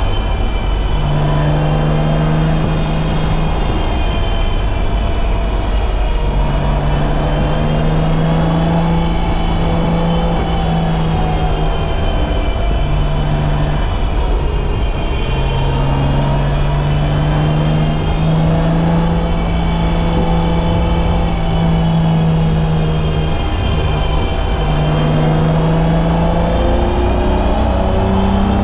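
BMW E30's M20B25 inline-six engine heard from the cabin at race pace, the revs climbing and dropping with short breaks at lifts and gear changes every few seconds, over a steady rumble of road and cabin noise.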